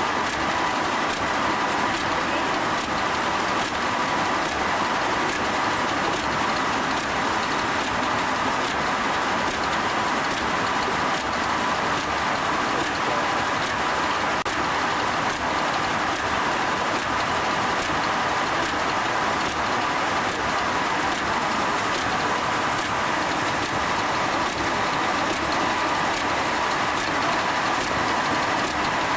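Steam-powered sawmill machinery running steadily: a continuous loud mechanical noise with a steady whine in it.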